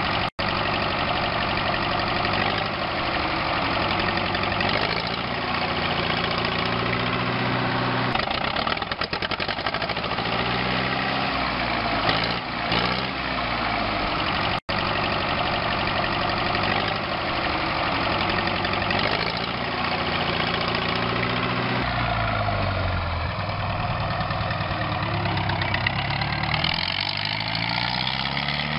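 Tractor engine running, its pitch rising and falling in slow swells every few seconds. It cuts out briefly twice.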